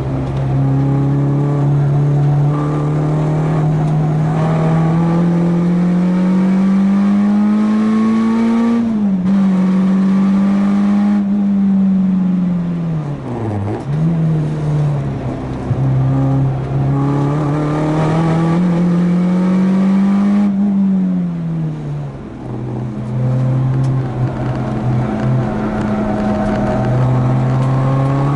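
Four-cylinder car engine under hard track driving: the note climbs steadily under acceleration, drops back sharply at gear changes and lifts, then climbs again, several times over.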